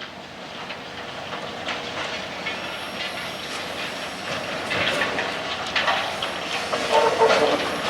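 Freight train cars rolling past, wheels clicking over rail joints with a steady rumble of rolling noise. A short high tone comes in about seven seconds in.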